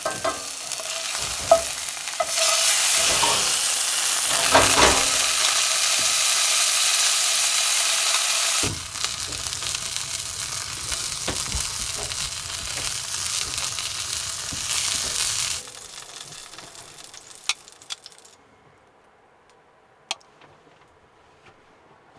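Garlic sausages sizzling in a frying pan. The sizzle is loudest for the first several seconds, drops suddenly a little before halfway, then dies away. A few light clicks follow near the end.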